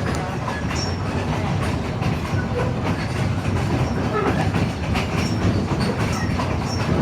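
East Broad Top Railroad train behind steam locomotive No. 16, heard riding along: a steady rumble of the cars rolling on the narrow-gauge track, with scattered short clicks of the wheels over the rails.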